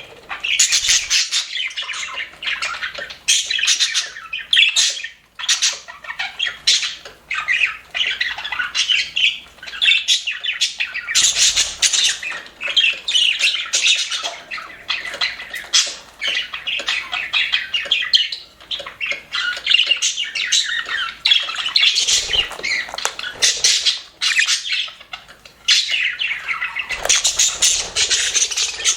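Budgerigars chattering and warbling together, a steady overlapping stream of chirps, squawks and short clicks.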